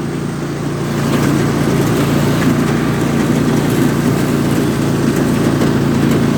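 Riding lawn tractor's small engine running steadily close by, with an even, unbroken drone.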